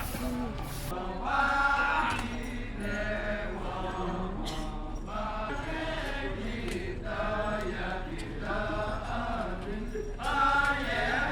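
Balinese kecak chorus of many male voices chanting in unison, in repeated phrases with short breaks between them, swelling louder twice.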